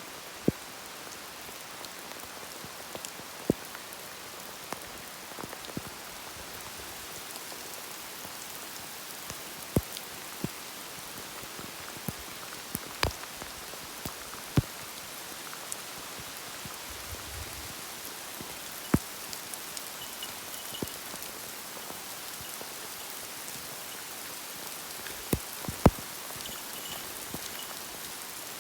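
Heavy rain falling steadily, with sharp taps of large drops striking now and then, scattered irregularly.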